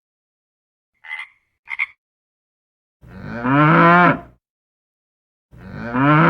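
Two short frog croaks, then a cow mooing twice, each moo a long low call lasting over a second.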